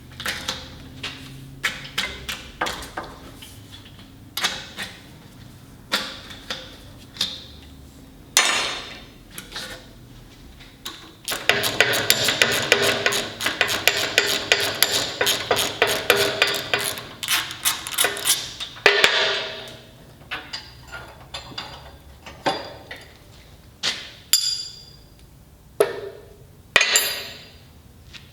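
Metal tools knocking and clanking during work on a truck's front end: scattered sharp knocks, then a dense run of rapid strikes lasting about seven seconds, then scattered knocks again.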